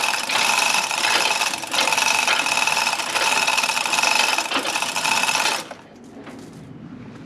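A small electric motor runs steadily with a high whine, then stops abruptly about five and a half seconds in; it plausibly powers the lift raising the engine.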